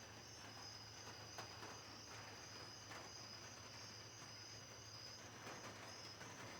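Crickets trilling steadily, faint and high-pitched, over a low steady hum, with a few soft scattered ticks.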